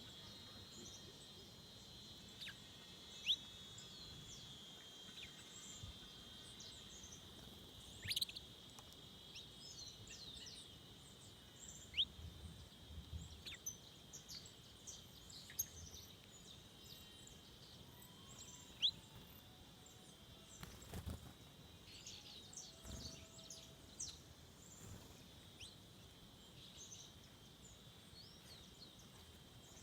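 Forest birds giving short, sharp, quickly rising chirps every second or two over a steady high insect drone.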